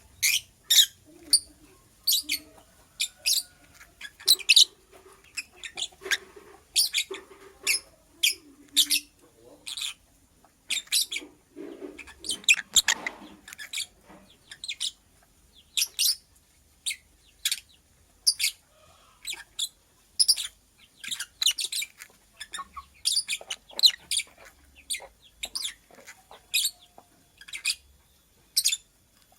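Lovebird chirping: short, sharp, high chirps repeated irregularly, about one or two a second.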